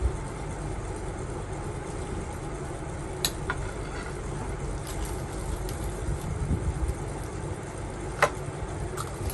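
Steady low rumble with a few sharp clicks; the loudest click comes about eight seconds in.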